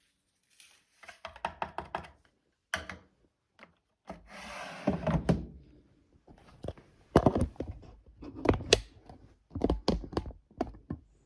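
Irregular clunks and knocks, with a short rubbing hiss a few seconds in, from a Blomberg WA391 washing machine.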